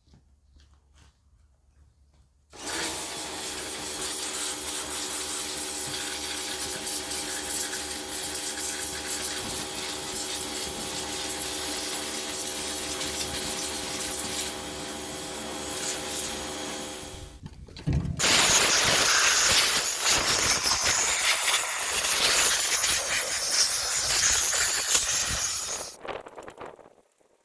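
A power tool or machine starts about two and a half seconds in and runs steadily with a hum and hiss for about fifteen seconds. It stops briefly, then a louder, even hissing runs for about eight seconds and stops.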